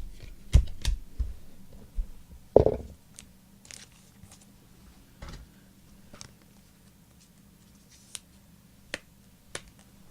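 Trading cards and pack wrappers being handled at a table: scattered clicks, taps and light tearing, busier in the first few seconds with one louder knock about two and a half seconds in, then sparse faint ticks.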